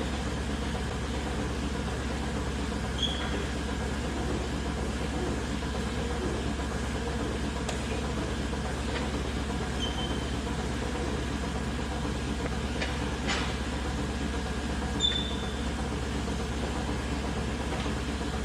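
Steady drone of milking-parlor machinery, typical of the vacuum system running during milking. A few short high chirps and faint clicks sound over it.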